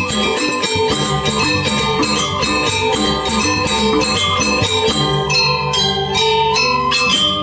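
Balinese gamelan playing, a dense run of struck metallic tones. About five seconds in, the high strikes thin out and lower held gong-like tones come forward.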